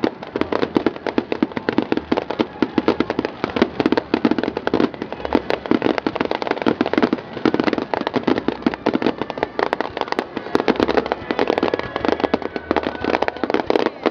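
Aerial fireworks display: a dense, continuous barrage of shell bursts, many bangs a second overlapping into one rolling rumble.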